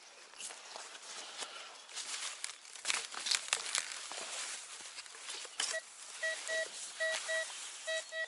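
Metal detector, an MD-3040, beeping in short repeated tones, often in pairs, starting about six seconds in: the signal of buried metal under the search coil. Before it, rustling and crackling, with sharp clicks.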